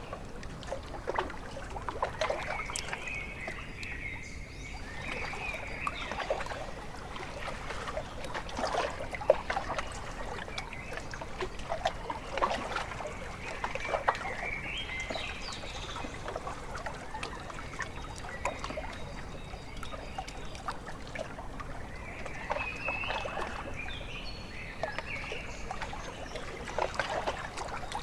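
Small waves lapping and splashing irregularly at a lakeshore, with birds chirping in short runs now and then: near the start, in the middle and again near the end.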